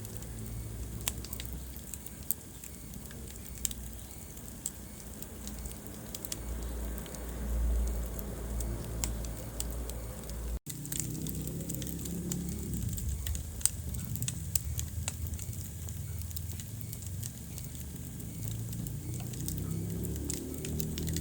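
Wood fire crackling in a fireplace: irregular sharp pops and snaps over a low steady rumble of the flames. The sound cuts out for a split second about halfway through.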